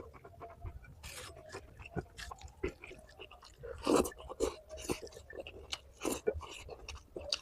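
A person chewing and crunching food close to the microphone, with many small mouth clicks and louder crunchy bites about one, four and six seconds in.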